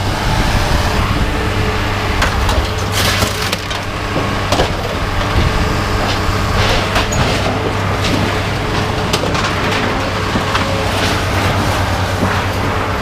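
Irregular clattering and crunching of scrap being shifted or unloaded, over a steady engine hum.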